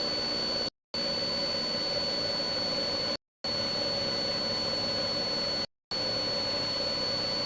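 Steady engine-like drone with a constant high whine, dropping out to dead silence for a moment about every two and a half seconds, three times.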